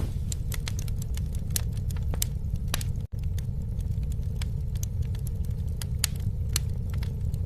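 Campfire burning, with irregular sharp crackles and pops from the burning wood over a steady low rumble of flames. The sound drops out for an instant about three seconds in.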